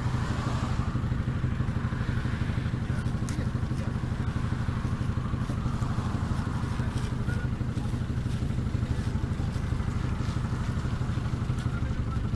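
Vehicle engine idling steadily, with a few light clicks and knocks from firewood being handled in sacks.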